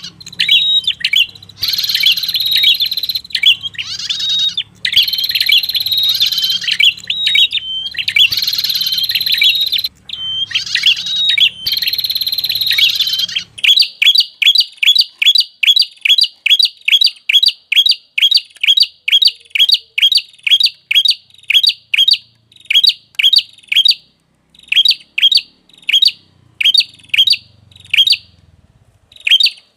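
Recorded prinia (prenjak) lure song: repeated buzzy song phrases with sharp notes, over a low hum. About 13 seconds in, the hum stops and a fast series of sharp chips follows, about three a second, becoming sparser and irregular near the end.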